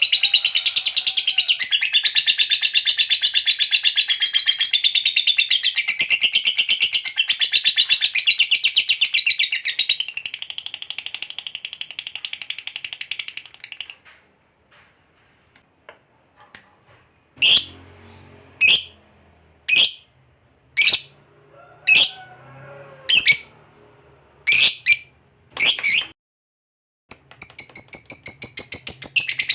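Lovebird giving its long, very rapid high-pitched chattering trill (the 'ngekek panjang'). It breaks off about halfway into a run of about nine single sharp calls roughly a second apart, and the fast chatter starts again near the end.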